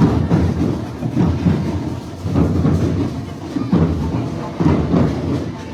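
Loud live parade music with drums and percussion, heavy in the low end, with strong beats landing at uneven intervals.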